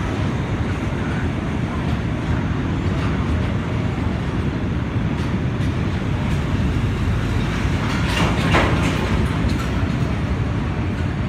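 Freight train of crude-oil tank wagons rolling slowly past, a steady low rumble of wheels on the rails, with a brief louder, higher noise about eight seconds in.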